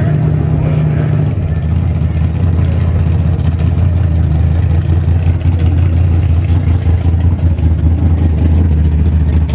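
High-horsepower boosted drag-race engine running loudly at the starting line. Its note drops about a second in, then holds at a steady, choppy idle as the car creeps forward.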